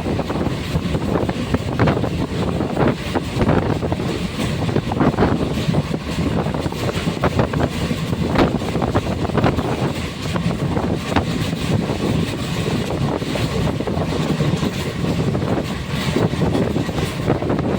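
Passenger train running along the track: a steady rumble with frequent, irregular clacks of the wheels over the rails.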